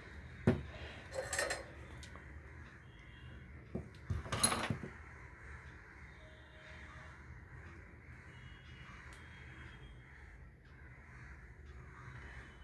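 A length of hookup wire being cut with side cutters: a few sharp clicks and two short, harsh bursts, the louder one about four and a half seconds in, over a steady low hum.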